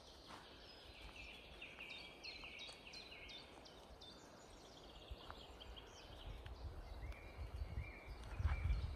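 Faint songbird song in woodland: a quick run of short, falling chirping notes, then a second, quieter phrase a few seconds later.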